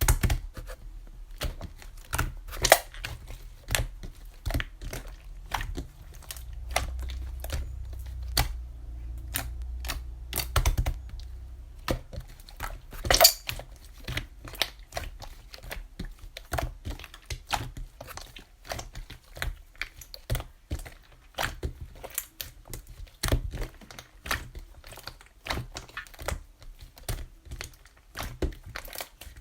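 Egg frying in hot oil in a pan, the oil spitting in a steady run of irregular crackles and pops, with one louder pop partway through.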